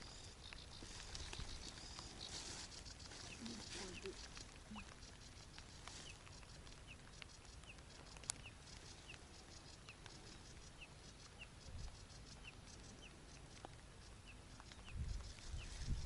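A bird giving a short, high, falling call over and over, about twice a second, with a light wind rumble underneath that swells near the end. One sharp click a little past the middle.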